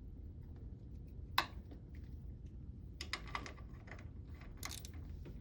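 Light, irregular clicks and taps of metal parts and hand tools being handled at the engine's raw-water pump cover as its bolts are fitted: one sharper click about a second and a half in, then small clusters of clicks.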